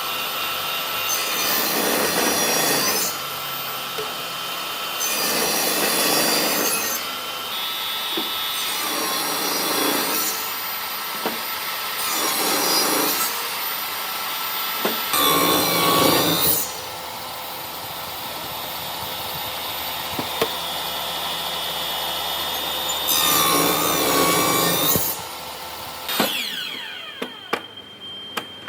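An electric woodworking power tool runs steadily and cuts into wood in about six passes of one to two seconds each. Near the end it is switched off and winds down.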